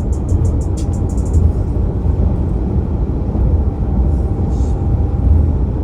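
A steady low rumble, with a fast, even high ticking that stops about a second and a half in.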